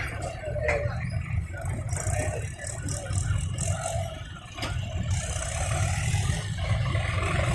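Tractor diesel engine running with a steady low drone and some rattling.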